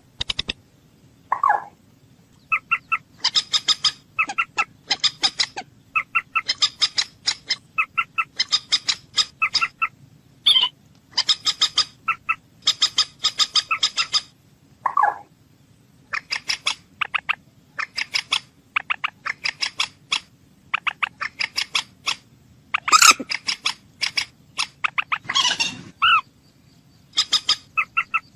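A bird calling in runs of short, sharp clicking notes, several a second, each run lasting a second or two with brief pauses between. A few longer, lower drawn-out calls break in between the runs.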